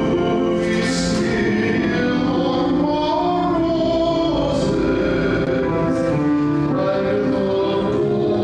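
A choir singing a sacred piece in held, multi-voiced chords.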